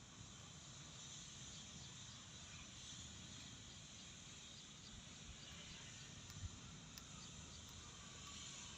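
Faint outdoor ambience with a steady high hiss, and a single soft thump about six and a half seconds in.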